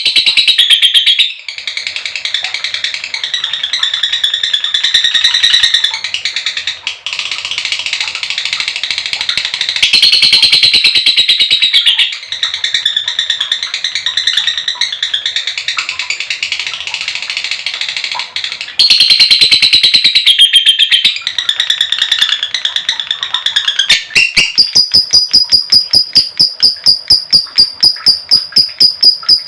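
Female lovebird giving a long 'ngekek' chatter: rapid, high-pitched calls strung together in stretches of a few seconds. About three-quarters of the way through, it settles into a fast, even trill on one steady pitch. This excited, breeding-condition chatter is used as a lure to make other lovebirds call.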